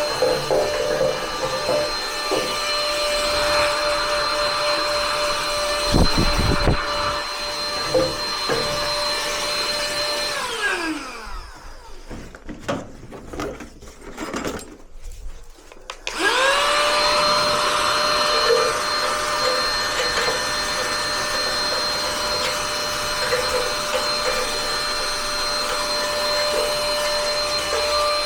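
Vacuum cleaner motor running at a steady high whine, switched off about ten seconds in so its pitch falls away. Then come a few seconds of clicks and knocks, and it is switched back on and winds back up to speed.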